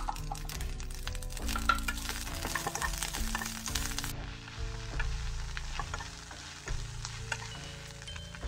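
Kale flower shoots sizzling as they fry in a wok, with a spatula stirring and tossing them and clicking against the pan.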